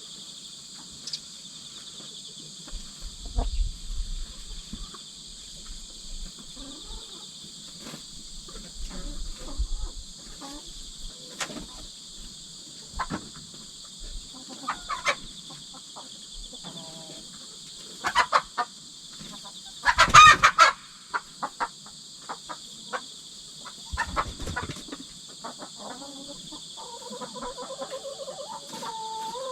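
Hens clucking and giving short calls, with one loud squawk about two-thirds of the way through, over the steady chirping of crickets.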